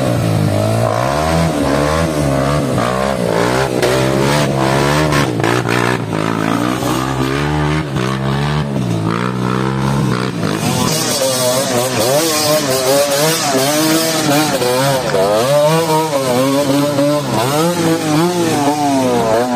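Yamaha WR155's single-cylinder engine revving up and down over and over as the trail bike labours up a slippery climb, with its rear tyre slipping, which the rider puts down to the tyres not being let down enough. A hiss of higher noise joins the engine for a few seconds about ten seconds in.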